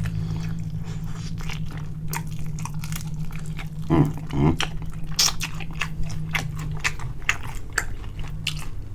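Close-miked chewing and biting of crispy fried wings: many sharp crunches and wet smacks. A steady low hum runs underneath, and two heavier thuds come about halfway through.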